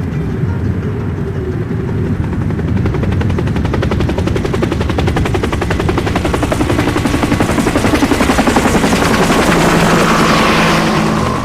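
Helicopter rotor chopping, a rapid even beat that grows louder toward the end.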